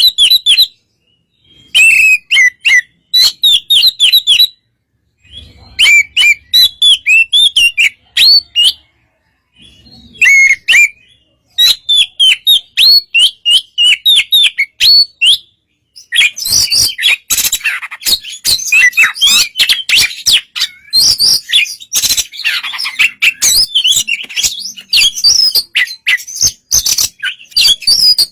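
Oriental magpie-robin (kacer) singing: bursts of rapid chirps and whistled notes with short pauses between phrases, turning into a continuous, busier song from about sixteen seconds in.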